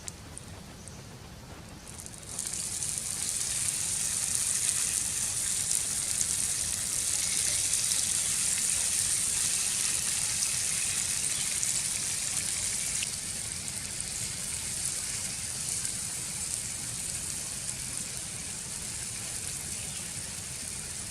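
Food sizzling on a hot cooking stone: a loud hissing sizzle with fine crackle starts suddenly about two seconds in and slowly dies down over the second half.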